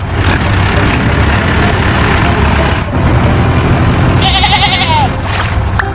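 A farm animal bleating, for about the first four seconds. In the last second or two a high warbling sound comes in, with a short gliding tone.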